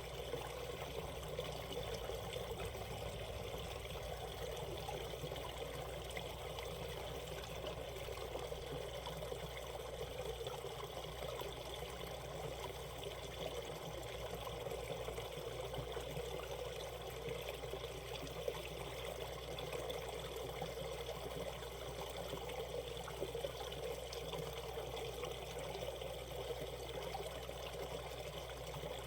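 Mountain stream water flowing and trickling over rocks in a steady, even rush.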